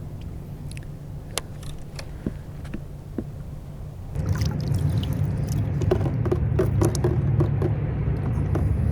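Small water splashes, drips and knocks around a kayak over a steady low rumble, while a freshly caught Pacific bonito is handled at the boat. About four seconds in the sound grows louder, with more splashing and handling clicks.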